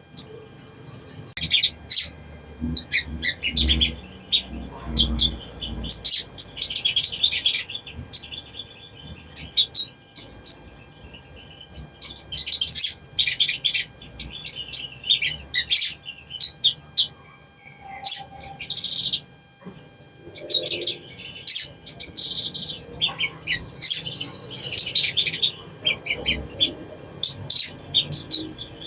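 A small songbird known in Indonesia as the sogon calling: bursts of rapid, high, twittering chirps and trills, several seconds long, broken by short pauses. This is a lure recording used to get a kept sogon to start singing.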